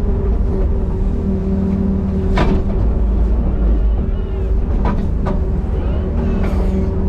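Small excavator's diesel engine running steadily, with a few sharp knocks: one about two and a half seconds in and two close together near five seconds.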